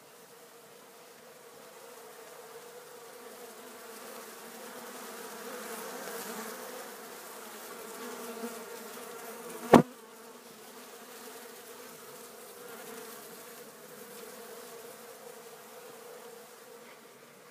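Bees buzzing at their nest: a steady, many-voiced hum that swells towards the middle and eases off again. A single sharp knock comes about ten seconds in.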